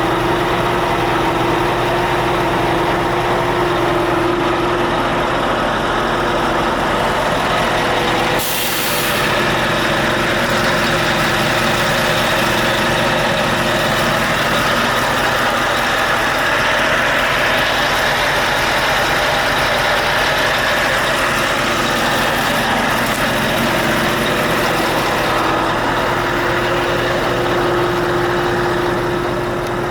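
Scania S730's 16-litre V8 diesel idling steadily, with one short hiss of released air about eight seconds in.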